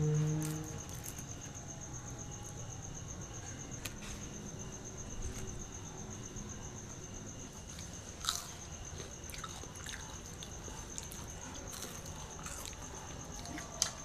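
People biting and chewing crisp fried potato french fries, with a few sharp crunches. A steady high thin whine runs underneath, and a brief low hum sounds at the start.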